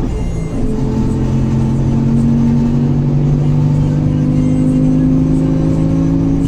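Mercedes-Benz LO 916 bus's OM924LA four-cylinder turbodiesel running under load. Its note dips briefly about half a second in, then climbs slowly and steadily as the revs build.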